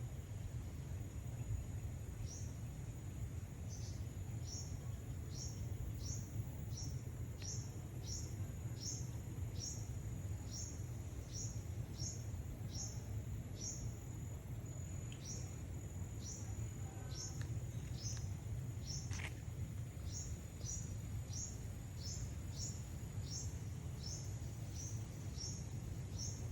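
A bird repeating short, high, falling notes about twice a second, with a brief pause midway and one longer falling call, over a steady high-pitched insect drone and a low background rumble.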